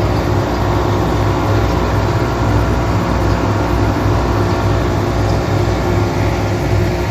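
Boat engine running steadily underway, a constant low drone with an even rushing noise over it.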